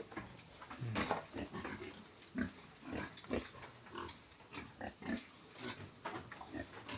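Pigs grunting in short, irregular bursts, with a few sharp knocks in between.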